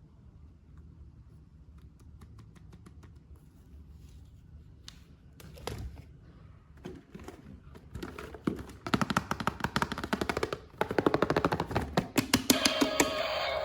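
Sparse light taps and clicks, then a dense run of rapid clicking and rattling from about eight seconds in. This fits plastic toy parts or packaging being handled. Pitched music-like tones come in near the end.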